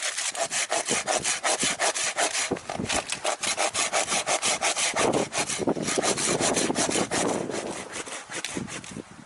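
Hand saw cutting through wood in quick, even strokes, about four a second, with a couple of brief pauses.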